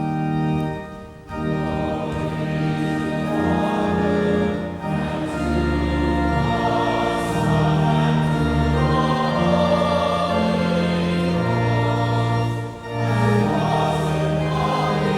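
A group of voices singing a sacred song with organ accompaniment, in held notes that change in steps. There is a short break between phrases about a second in and another near the end.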